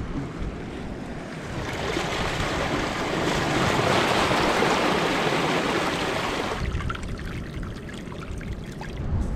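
Seawater washing over a rocky shoreline: a rushing, hissing surge that builds for a few seconds and cuts off suddenly about two-thirds of the way through, leaving low wind rumble on the microphone.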